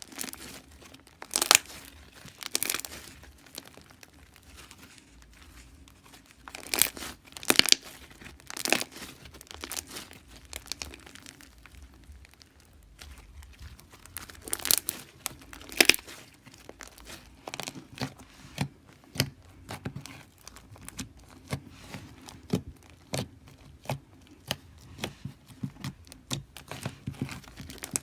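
Bead slime being stretched, squeezed and pressed by hand, giving irregular crackling pops and clicks. A few louder pops stand out in the first half, and quicker, smaller clicks fill the second half.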